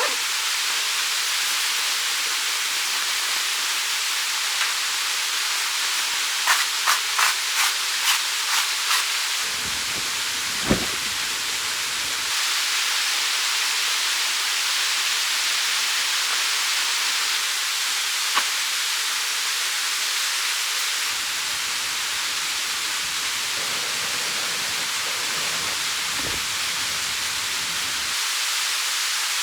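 Steady rush of a mountain stream, an even hiss with no rhythm. A quick run of about seven sharp clicks comes roughly a quarter of the way in, with a couple of single clicks later.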